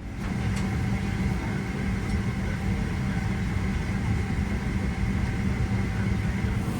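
Steady aircraft cabin noise inside a Boeing 777-300ER: a low hum from the air-conditioning and aircraft systems, with a few faint steady tones above it.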